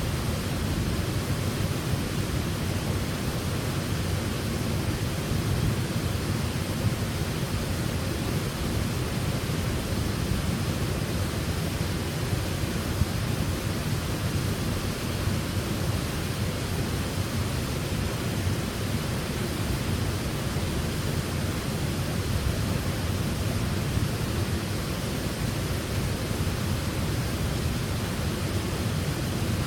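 Waterfall: a steady, unbroken rush of falling water, deep-toned, with most of its weight low down.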